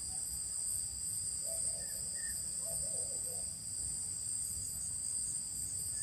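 Night insect chorus: crickets trilling steadily in two high-pitched bands, with a few faint short chirps.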